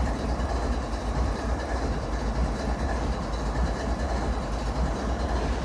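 Parked diesel-electric freight locomotives idling: a steady low rumble.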